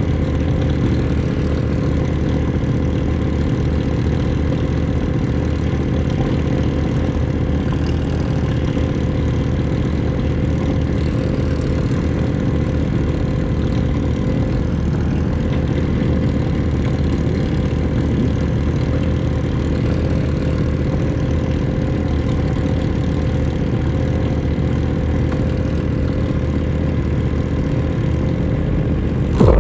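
Ducati 1199 S Panigale's 1198 cc Superquadro L-twin engine idling steadily at an even pitch, with no revving.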